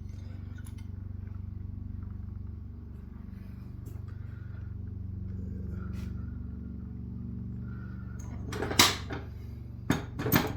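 Metal tools and parts being handled on a workbench, with a few sharp metallic clanks near the end, over a steady low hum.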